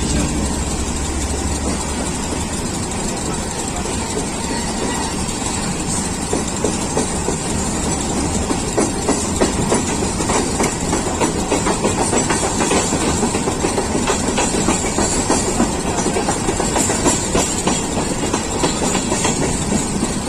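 Train running along the track, its wheels clattering over the rails, the clatter growing busier and spikier after the first several seconds.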